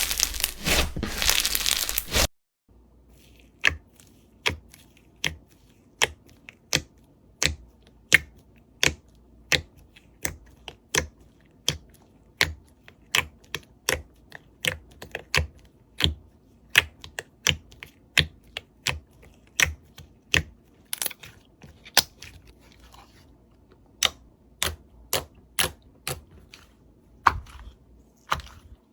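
Slime being squeezed and worked with a dense crunchy crackle, then, after a cut about two seconds in, a steady series of sharp clicks and pops, roughly two a second, as the slime is pressed and poked.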